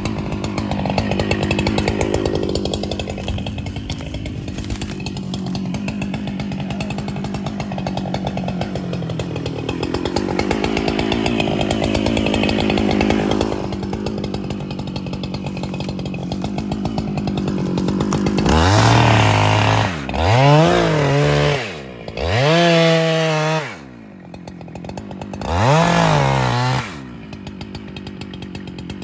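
Two-stroke chainsaw running at high speed under steady load, as in a long cut through wood. From about two-thirds of the way in it is revved up and down about four times, each rev rising and falling in pitch.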